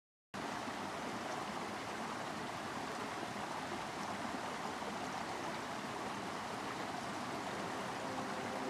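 Steady, even rushing noise of outdoor ambience that starts abruptly just after the beginning.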